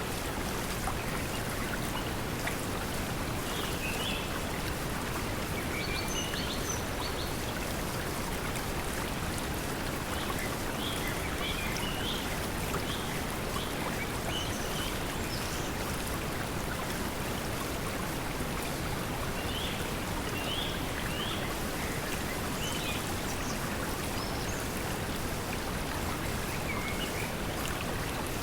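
Steady pink noise mixed with flowing water, with faint bird chirps now and then.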